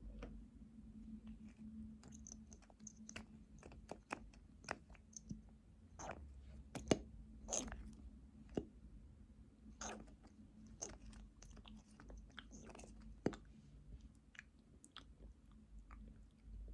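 Close-miked wet mouth sounds: irregular lip smacks and tongue clicks, a few sharper and louder than the rest, over a faint steady hum.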